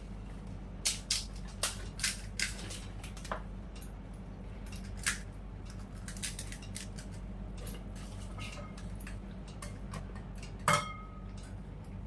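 Scattered sharp crackles and clicks of crisp fuchka (pani puri) shells being cracked, filled and crunched, with dishes handled. They cluster in the first few seconds, with a single louder one near the end, over a steady low hum.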